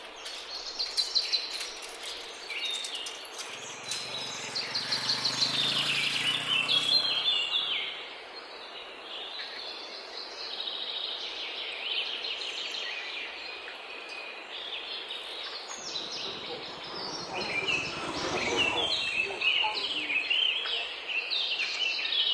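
Birds chirping and calling in the trees over steady outdoor background noise. A rushing sound swells and fades about two-thirds of the way through.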